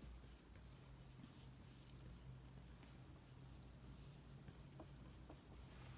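Faint, soft scratching of an oil-paint brush dabbed and stroked lightly over canvas while blocking in colour, over a low steady hum of room tone.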